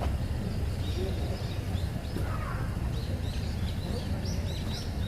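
Small birds chirping, a quick run of short high notes in the second half, over a steady low rumble.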